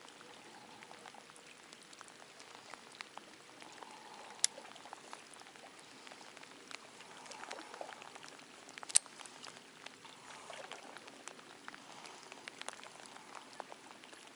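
Light rain falling, with many small drops ticking close by. Two sharp clicks stand out, one about four seconds in and another about nine seconds in.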